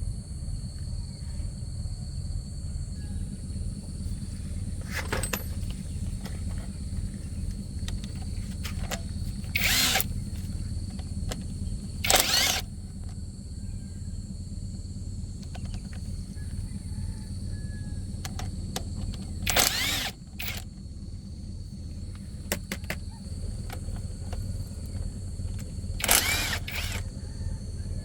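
Five short bursts of a power tool, each about half a second, over a steady low hum, with insects chirring steadily.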